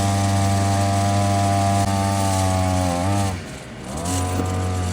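Small cheap two-stroke outboard motor running at full throttle, a steady high buzz. About three seconds in the revs drop and the sound briefly fades, then it picks back up at a slightly lower speed.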